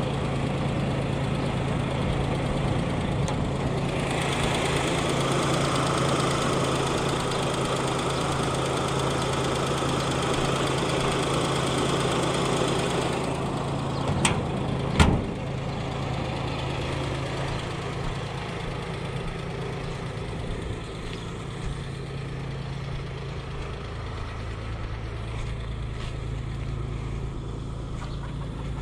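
1989 Suzuki Khyber's 993 cc G10 three-cylinder engine idling without stalling, harsher and louder for a stretch a few seconds in, then settling. Two sharp knocks about halfway through.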